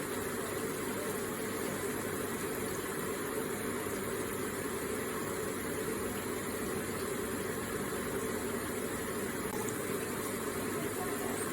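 Electric water feature running, water falling and splashing gently and steadily.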